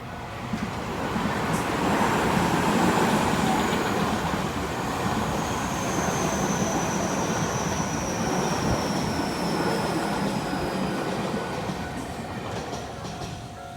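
A commuter train passing over a level crossing. The rumble and clatter build over the first two seconds, hold, then fade near the end, with a high whine slowly falling in pitch through the middle. The crossing's warning bell is heard at the start and again as the train clears.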